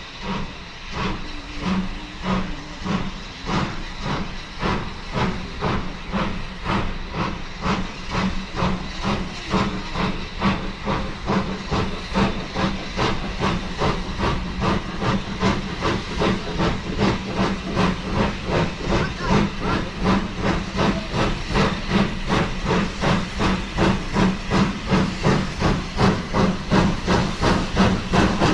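Steam locomotive exhaust beats over steady steam hiss, the chuffs evenly spaced and gradually quickening as the engine works a train away.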